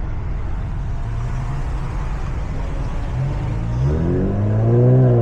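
Car engine at low speed with a steady low rumble; about three seconds in its note rises as it revs up, then holds steady and louder.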